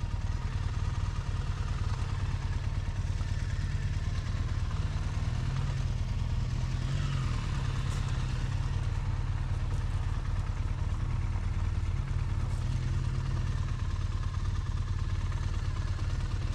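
Triumph motorcycle engine running steadily, its note shifting slightly a few seconds in.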